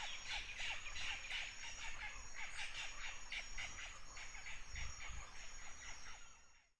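Chorus of frogs and insects: a fast string of short chirps, about four or five a second, over a steady high-pitched insect whine. It cuts off abruptly near the end.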